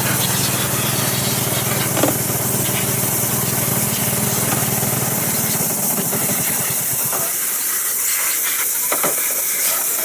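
Loud, steady hiss, with a motor humming underneath that dies away about two-thirds of the way through; a couple of faint knocks.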